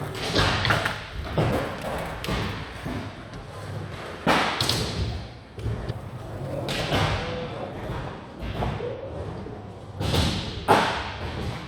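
Skateboards rolling on ramps, with several sharp board impacts such as landings and tail slaps. The loudest impact comes near the end.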